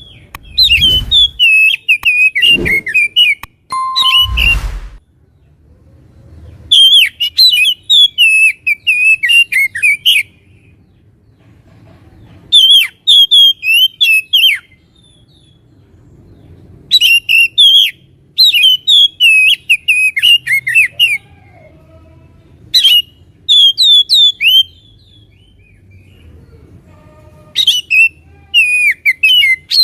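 Oriental magpie-robin (kacer) singing loud phrases of fast, varied whistled notes, each one to three seconds long, with pauses of a few seconds between them. A few low thumps sound in the first five seconds.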